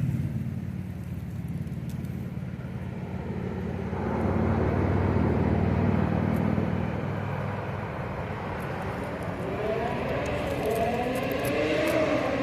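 Motor vehicle traffic: a vehicle engine running with a steady low hum, then a vehicle accelerating near the end, its engine rising in pitch.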